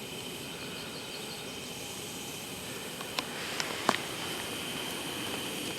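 Steady outdoor ambience: a constant low rushing noise with faint high calls held above it, broken by a few short sharp clicks about three to four seconds in.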